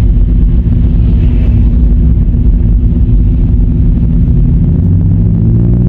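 Car engine and road noise while driving: a steady low drone with engine tones that shift in pitch near the end as the engine speed changes.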